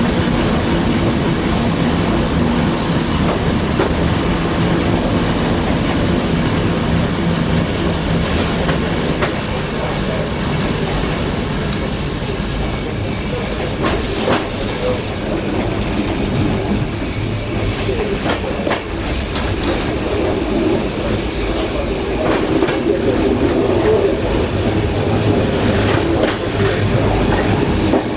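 Passenger train carriage running over jointed track: steady wheel-and-rail rumble with occasional sharp clicks from rail joints in the second half. A thin high wheel squeal sounds at the very start and again from about four to eight seconds in, as the train takes a curve.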